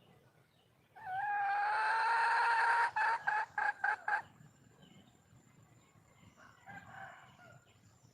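Red junglefowl hen calling for a mate: one long drawn-out note of about two seconds, then a quick run of short clipped notes, and a fainter call a few seconds later.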